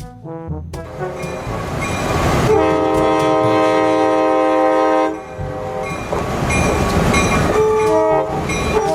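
Train horn blowing, a long blast of several tones together over the rumble of a moving train, followed by more horn notes.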